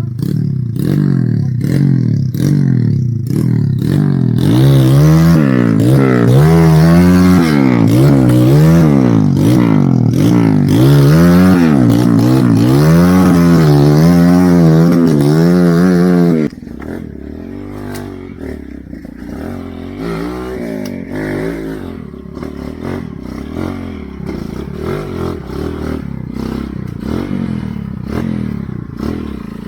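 Motorcycle engine revved up and down over and over, its pitch rising and falling for about twelve seconds, then dropping suddenly about halfway through to a quieter, lower running with some clatter and scraping.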